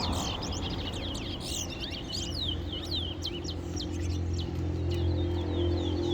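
Towa-towa seed finches singing in a song contest: a fast, continuous run of high sweeping chirps and warbles, the songs that are counted in the race. A steady low hum runs underneath.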